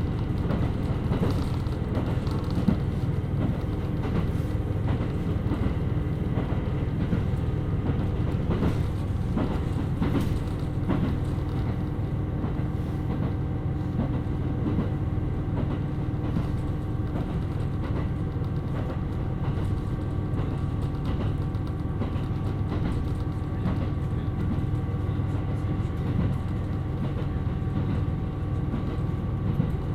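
KiHa 127 series diesel railcar running steadily: the diesel engine and wheels on the rails make a continuous rumble with a few steady tones, and rail-joint clicks come through in the first ten seconds or so.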